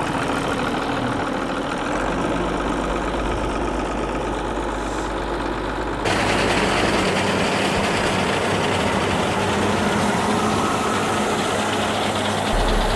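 Tractor diesel engine running steadily. About six seconds in, the sound abruptly becomes louder and brighter.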